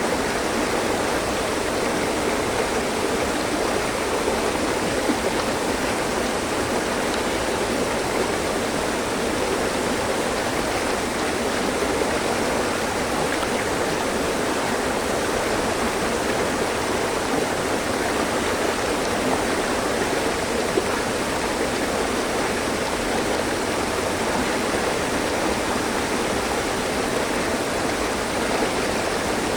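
Mountain stream with clear water rushing and splashing over rocks: a steady, even rush.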